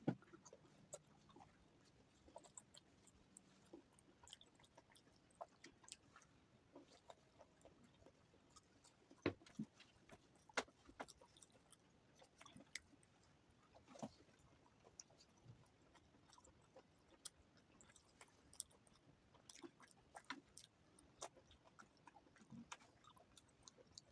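Quiet, close-miked eating sounds: a person chewing soft food such as rice, paratha and vegetable curry, with scattered soft mouth clicks and smacks at uneven intervals.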